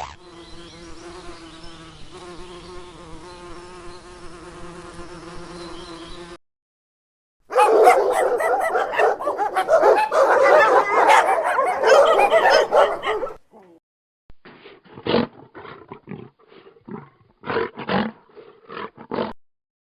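Three separate animal sound clips in a row: a steady buzzing hum for about six seconds, then after a short gap a loud, rough roaring sound lasting about six seconds, then a string of short, sharp calls.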